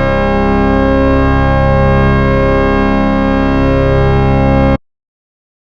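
Synthesized tones from the Desmos graphing calculator: a dense, steady chord of many pitches with a slow wavering beat, cutting off suddenly about five seconds in.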